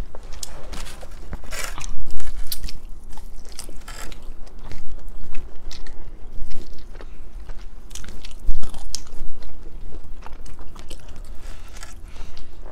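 Close-miked eating sounds: two people chewing and biting into buffalo wings and a burger, with irregular clicks and crunches.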